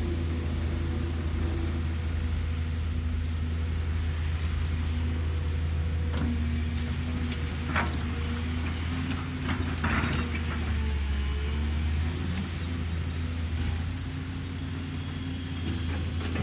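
Caterpillar excavator's diesel engine running steadily, with a couple of short metallic clanks around the middle.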